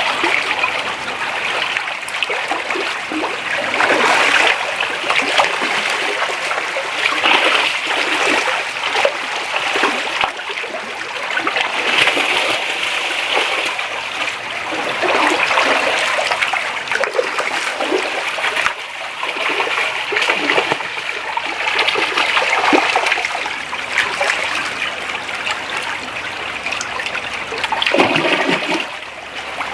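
Creek water running and splashing steadily, with frequent short irregular splashes.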